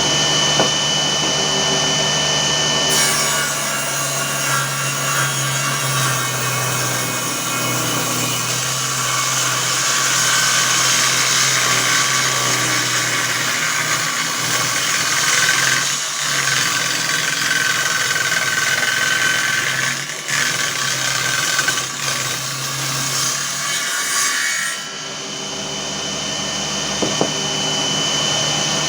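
A 24 V DC 997 motor drives a 7-inch 24-tooth circular saw blade. It runs free with a steady whine, then cuts wood for about twenty seconds, a rougher, rasping sound, and spins free again near the end.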